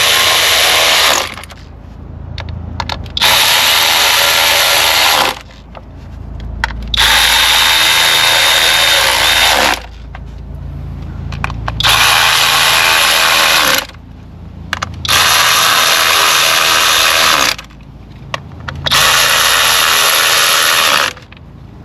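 A power driver spinning down the ignition coil hold-down bolts on a 3.6 L V6, in six separate runs of about two seconds each with short pauses between.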